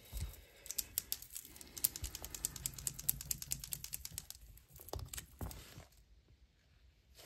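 Rapid run of light clicks, about ten a second, from acrylic paint markers being handled and worked, followed by a few separate louder clicks about five seconds in.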